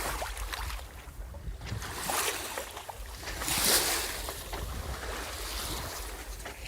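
Water washing and splashing along the hull of a Viking 28 sailboat under way, in swells, the biggest a little past halfway, with a low wind rumble on the microphone.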